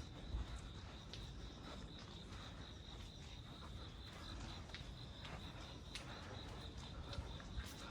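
Crickets chirping in a steady, continuous high trill, faint, with scattered light ticks and a low rumble underneath.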